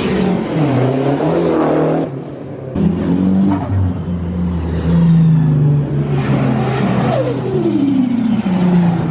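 Car engines revving hard, the engine note rising and falling, with a sudden break about two seconds in. Near the end comes a long falling pitch as revs drop or a car passes.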